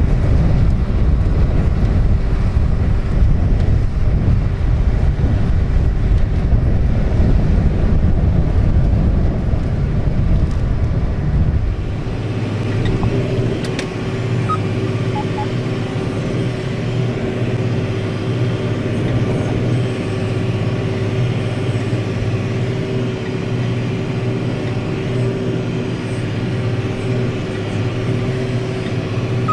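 A machine's engine running. A loud low rumble for about the first twelve seconds changes abruptly to a steadier hum carrying a constant tone.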